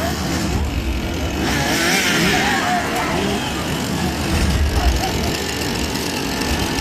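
Chainsaw engines revving on and off amid crowd voices.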